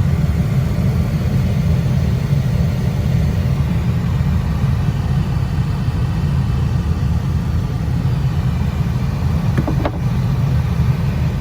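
Newly replaced heater blower motor and fan of a 2000-2004 Toyota Tacoma running steadily at speed, a smooth deep rush of air with no crunching: the new blower and resistor have cured the noise. A couple of clicks come about ten seconds in.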